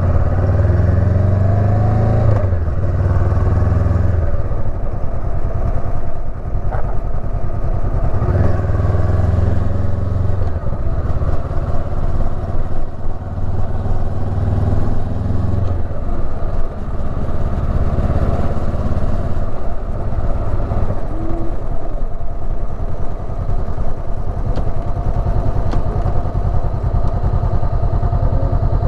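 Honda CB500X's parallel-twin engine running under way, its note rising and falling a few times with the throttle.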